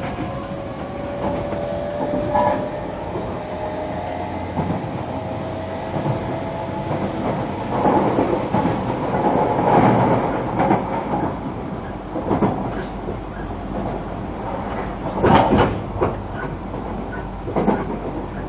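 Running noise inside a JR Kyushu 305 series electric train car at speed. Its VVVF inverter and traction motors give a few steady whining tones that fade after about four seconds. Wheels clatter over rail joints under a steady rumble, with several sharper knocks, the loudest about fifteen seconds in.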